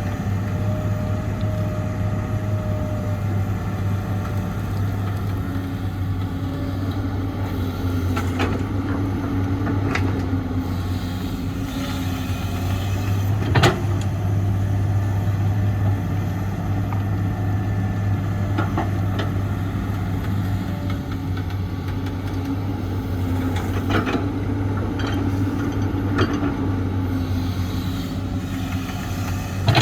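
Large excavator's diesel engine running steadily under load, its pitch strengthening for several seconds twice as it works. A few sharp knocks stand out, the loudest about halfway through.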